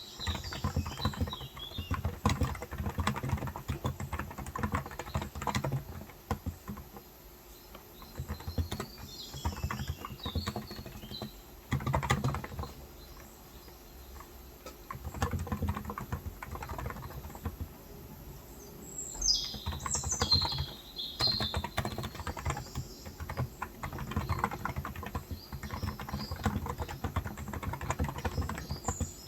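Typing in bursts on a Cox Endeavor 35 g electro-capacitive (non-contact) tenkeyless keyboard: quick runs of keystrokes broken by short pauses. Birds chirp outside several times, most strongly around two-thirds of the way through.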